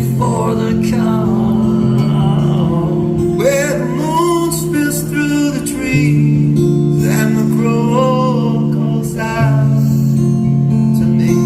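Live rock ballad: a male voice singing over guitar and sustained chords, with the chords changing every few seconds.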